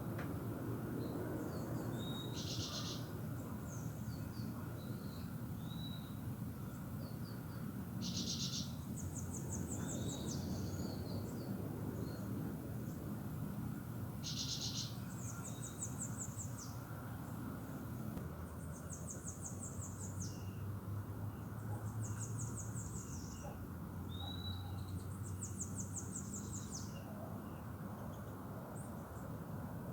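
Several birds singing and calling: repeated trills about a second long, short curved whistles and brief chirps, over a steady low background rumble.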